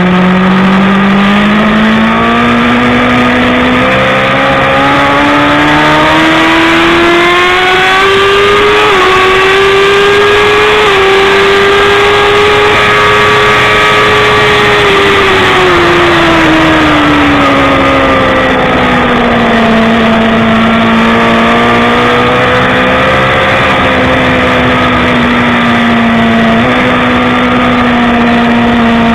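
BMW S1000RR inline-four engine at race pace. It climbs in pitch over the first half with two brief dips as it shifts up, then drops away in the middle and runs steadily at a lower pitch for the rest.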